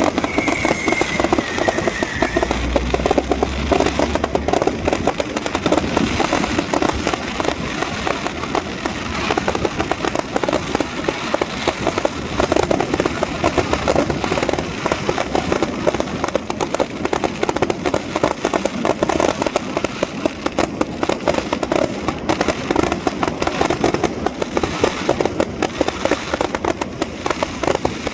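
New Year fireworks going off in a dense, unbroken barrage of bangs and crackles, with a short falling whistle near the start.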